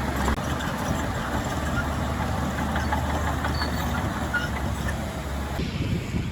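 Heavy diesel engine of earthmoving machinery running steadily with a deep drone. The sound changes abruptly near the end.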